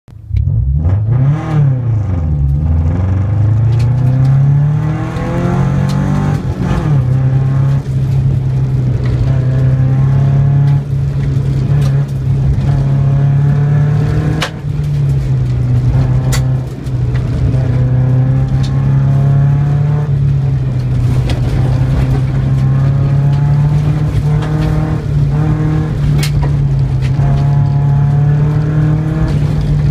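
Subaru flat-four engine heard from inside the cabin during a rallycross run on a dirt course, revving up and down hard through the first few seconds, then pulling at a fairly steady pitch with short rises and falls through the turns. A few sharp clicks cut through it.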